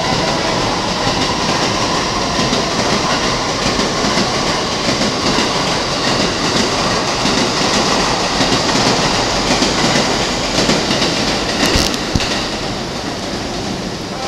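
An electric commuter train running past on the neighbouring tracks, its wheels and running gear making a steady rolling noise with a sharp knock about twelve seconds in. The sound fades near the end as the rear of the train moves away.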